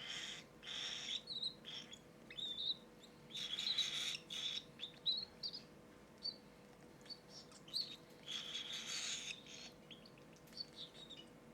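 Cockatiel chicks giving raspy, hissing begging calls in bursts of about a second, three or four times, with short high chirps in between, as they beg to be hand-fed.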